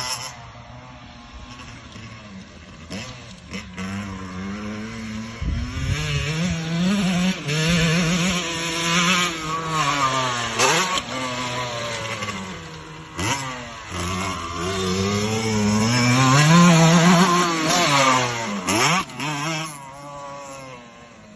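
Two-stroke motocross bike being ridden hard, its engine revving up and dropping back again and again. It gets louder toward the end as it comes close, then fades.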